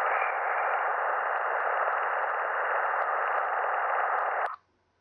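NASA sonification of Juno's Waves instrument data as the spacecraft crosses Jupiter's bow shock: a steady, static-like hiss that cuts off suddenly about four and a half seconds in.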